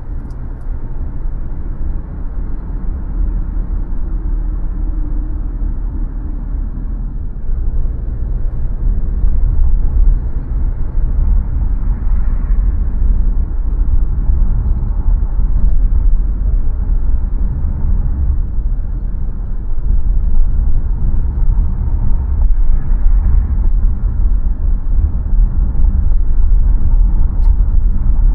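Steady low rumble of a car driving, with road, tyre and engine noise, growing somewhat louder about ten seconds in.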